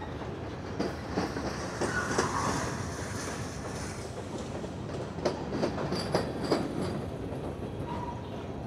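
Freight train cars rolling past, steel wheels clattering over the rail joints with irregular clacks and knocks. There are two brief high wheel squeals, one about two seconds in and one near the end.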